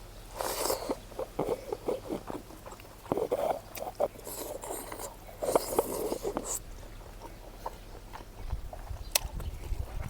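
Close-up chewing and biting of food, in several short bouts of wet, crackly mouth sounds. Near the end there is a sharp click and a low rumble.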